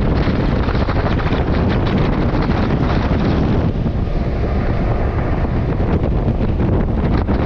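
Heavy wind buffeting the microphone of a moving motorcycle, a loud steady rush with rapid flutter, with the bike's running noise mixed in.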